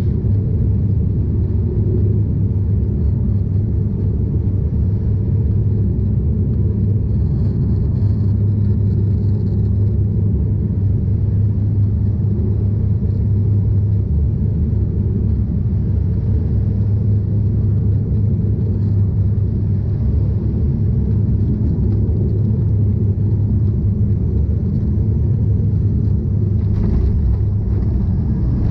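Cabin noise of a De Havilland Canada Dash 8 Q400 turboprop in flight: a loud, steady, low drone from the propellers and engines, with no pauses.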